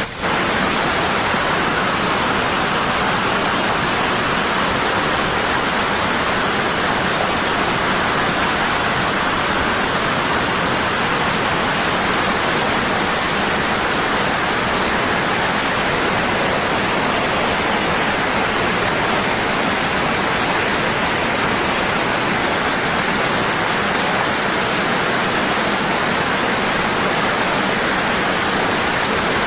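Waterfall, water falling hard and constantly: a steady, unbroken rushing noise, with a momentary drop in level right at the start.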